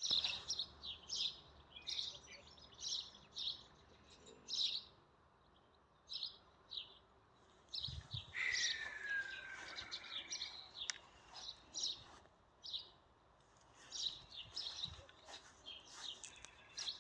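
Songbirds chirping in short, repeated calls, with one longer falling note about halfway through.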